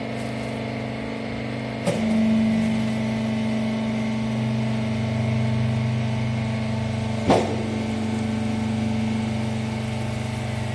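Wiper-rag baling machine running with a steady mechanical hum, broken by a sharp clunk about two seconds in and another about seven seconds in. After the first clunk the hum grows louder, as the machine takes on load.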